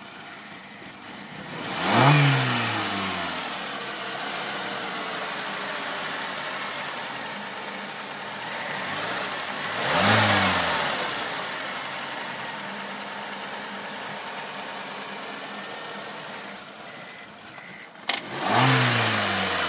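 A 1999 Saturn SC2's 1.9-litre twin-cam 16-valve four-cylinder idles and is revved briefly three times, each rev a quick rise and fall in pitch: about two seconds in, about halfway, and near the end. A sharp click comes just before the last rev. The revs show the hesitation on pressing the accelerator that the owner reports.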